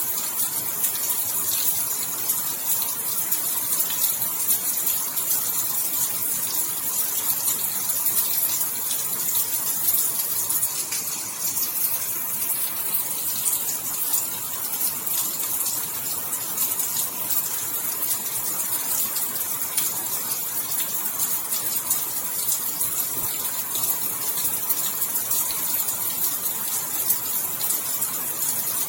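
Steady heavy rainfall: a dense, even hiss of falling rain with fine spattering drops throughout.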